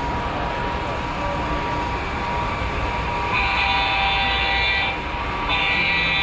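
Two horn blasts from a model train's sound system, each about a second and a half long with a short gap between, over steady hall hubbub.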